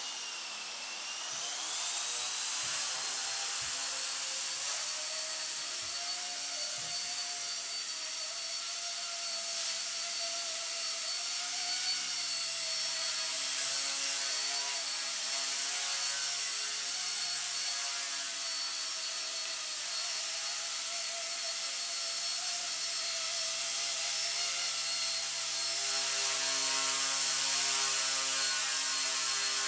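Blade mCP X BL2 micro RC helicopter running: a high-pitched whine from its brushless motors and spinning rotor blades, rising over the first couple of seconds and then holding steady with small wavers in pitch.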